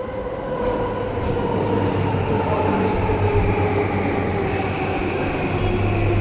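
Electric commuter train pulling into the platform, its motor whine falling slowly in pitch as it brakes over a rumble of running gear, growing louder over the first second or so.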